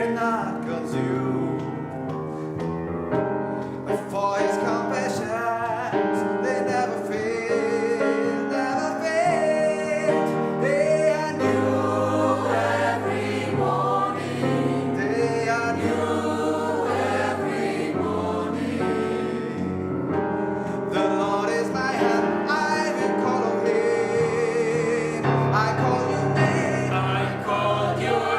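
Gospel choir singing a song with instrumental accompaniment.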